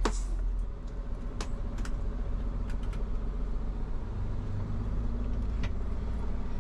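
Tow truck engine running steadily, its low hum getting fuller about four seconds in, with a sharp click at the start and a few faint clicks scattered through.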